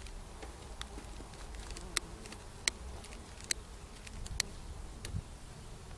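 Honey bees buzzing around the hive, with six sharp clicks about a second apart from a lighter being flicked again and again to light a bee smoker.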